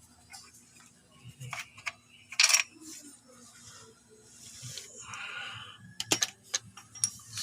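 Scattered metallic clinks, knocks and scrapes of hand tools on metal. There is a louder, sharper scrape about two and a half seconds in and a quick cluster of sharp clicks near the end.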